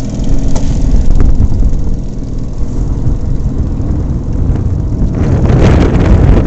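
Motorboat engine running steadily under way, with wind rumbling on the microphone; a louder rush of noise swells about five seconds in.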